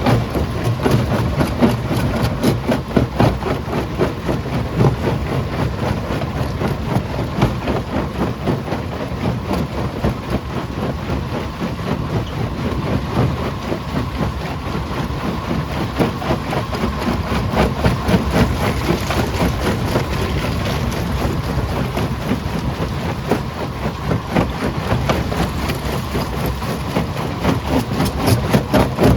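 Quarry jaw crusher running: a steady heavy mechanical rumble with a dense, continuous clatter of knocks.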